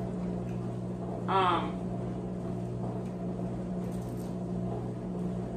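A steady low hum, with one short vocal sound, like a brief hum or murmur, about a second and a half in.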